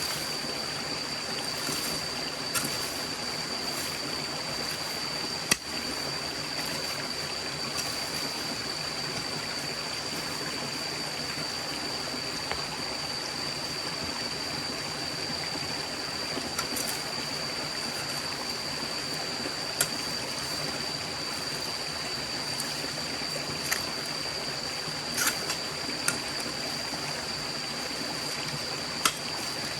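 Forest stream flowing steadily, an even rush of water, with a thin high tone held over it and a few brief sharp clicks.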